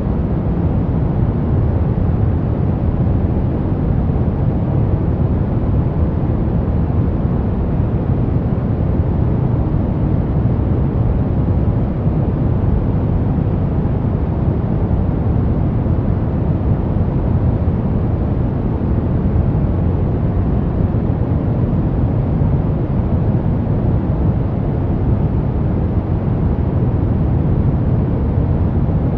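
Steady pink noise: an even, unchanging rushing hiss, heavier in the bass, with no breaks or changes.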